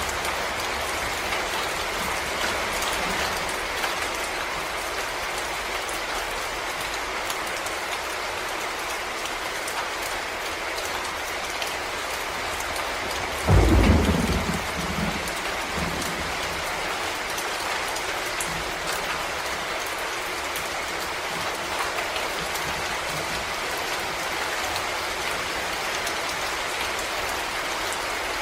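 Steady rain falling on forest leaves and ground. About halfway through comes a sudden loud low thump or rumble that dies away within a second or two.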